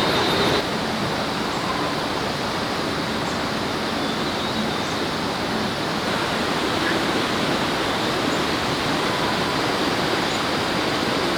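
Steady, even rushing noise with no clear rhythm or pitch. A faint high tone in the background stops about half a second in.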